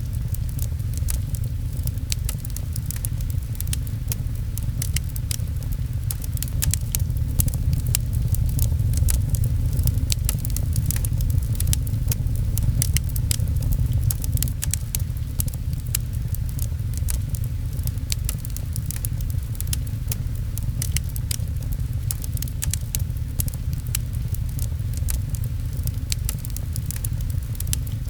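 Fireplace fire crackling with many small, sharp pops over a steady low rumble, mixed with the patter of rain.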